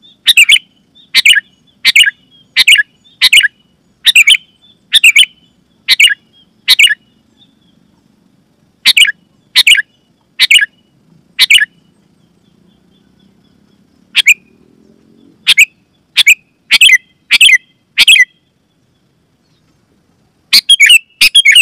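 Sooty-headed bulbul calling: short, loud, sharp notes repeated about every 0.7 seconds in runs, with pauses of a second or two between runs and a quick burst of three notes near the end.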